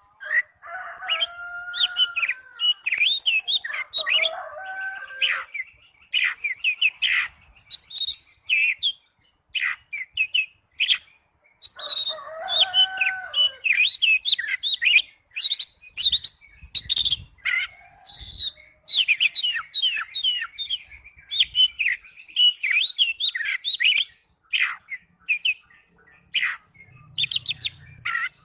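Oriental magpie-robin (kacer) singing a long, varied song: rapid runs of chirps, trills and sliding whistles in quick phrases with short pauses, some notes dropping to lower whistles.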